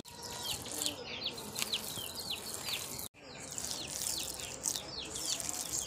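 Birds chirping in many quick, short falling notes over a steady background hiss, with a brief break about three seconds in.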